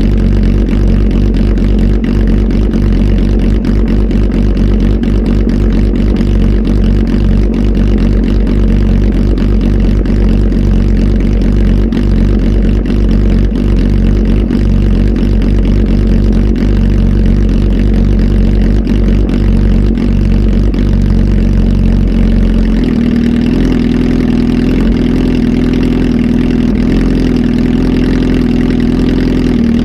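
Kawasaki Z H2 SE's supercharged inline-four running loud and steady through a full aftermarket exhaust, flash-tuned. About 23 seconds in the engine note changes and settles at a new steady pitch.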